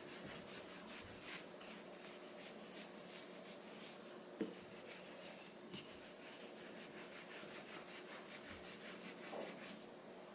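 Soft rubbing strokes on a work surface, quick and repeated several times a second, with a light knock about four seconds in and another near six seconds.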